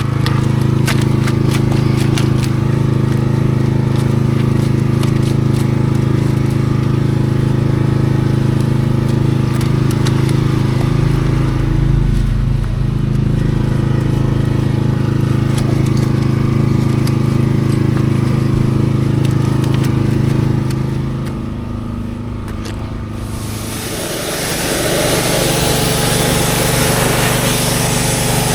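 A steady engine drone with a low, even hum for most of the time, with scattered clicks. It fades a little after about 21 seconds, and a few seconds before the end a loud, steady hiss takes over, mixed with a small engine's running.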